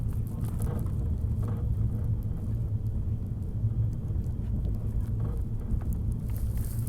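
Passenger train running, a steady low rumble with light scattered clicks and rattles.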